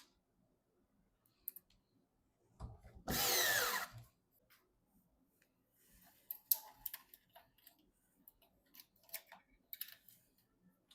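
A small cordless electric screwdriver runs in one short burst about three seconds in, driving a screw. It is followed by scattered light clicks and taps of parts being handled.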